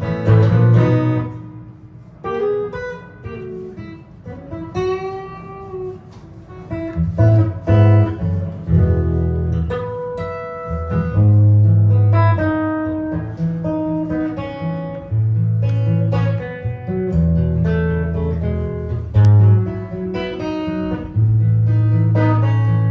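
Improvised jazz guitar playing: plucked single-note lines and chords, with a bent note about five seconds in and deep sustained bass notes in the second half.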